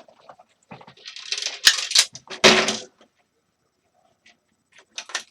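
Space heater parts rattling and clattering as the stuck internals are wrenched and pulled on, with two sharp knocks in the loudest stretch and a few light clicks near the end.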